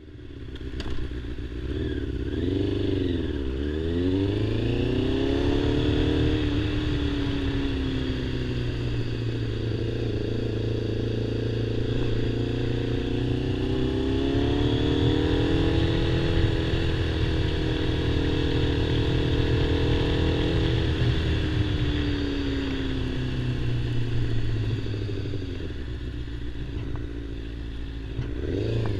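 Kawasaki ZZR600 inline-four engine heard from the bike on the highway, with wind noise. The revs rise and dip twice in the first few seconds, climb again about halfway, hold steady, ease off for several seconds and pick up again near the end.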